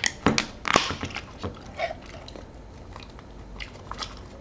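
Eating at close range: a few sharp clicks of a utensil against the dish in the first second and a half, then faint chewing.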